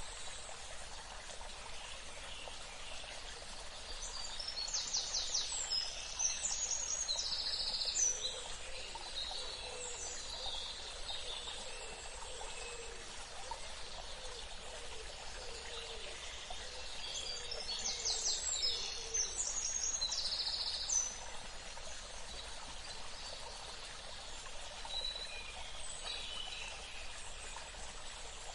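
Wild birds singing and calling in two busy bouts, the first a few seconds in and the second just past the middle, over a steady hiss of running stream water.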